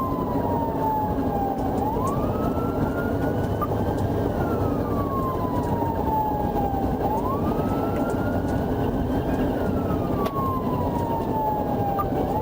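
Police car siren on a slow wail, falling and rising again about every five seconds, over a steady low rumble of road and engine noise.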